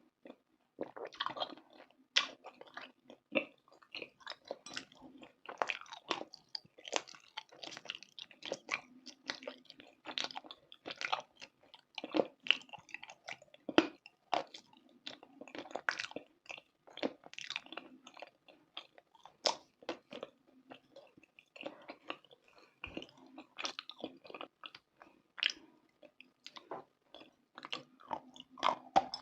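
Close-miked chewing of something crunchy, a dense run of irregular crackly crunches that starts about a second in.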